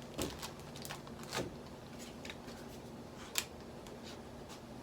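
Faint handling noise of a plastic bag of plaster cloth sheets being opened and worked, with a few soft knocks and one sharp click about three and a half seconds in.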